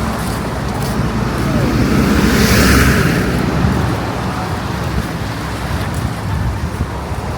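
A road vehicle passing close by, its noise swelling to a peak about two and a half seconds in and then fading, over a steady background rush.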